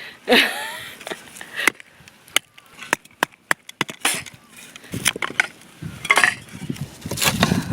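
Dry firewood sticks cracking and knocking as they are broken and handled: separate sharp cracks spread through, with a longer rough, scraping stretch in the second half.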